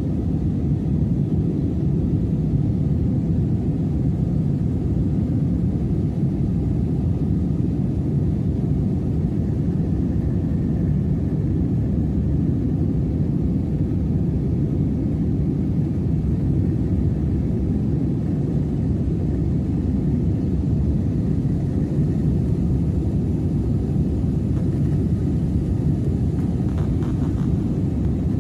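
Steady low rumble of a boat's diesel engine running at an even pace.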